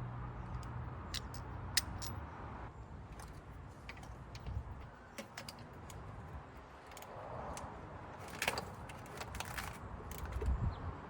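Scattered metallic clicks and clinks of hand tools on the engine during spark-plug work on a Ford V8.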